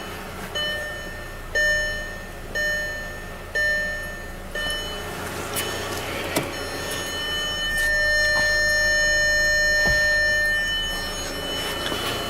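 Car dashboard warning chime: five beeps about a second apart, then one long tone held for several seconds.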